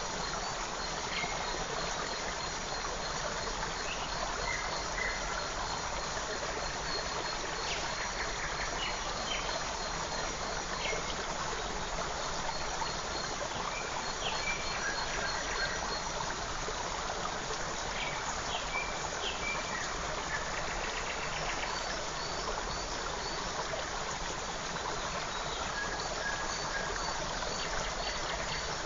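Forest creek running steadily, with short, high bird chirps scattered throughout and a quick run of repeated high notes in the last third.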